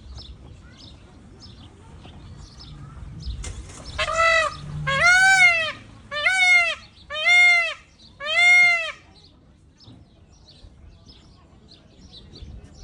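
Peacock (Indian peafowl) giving five loud calls in quick succession, starting about four seconds in; each call rises and then falls in pitch. Faint high chirps sound throughout.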